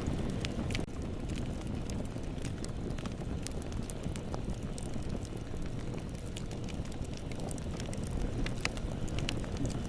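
Bonfire burning with a steady low rumble of flames and scattered sharp crackles and pops from the burning wood.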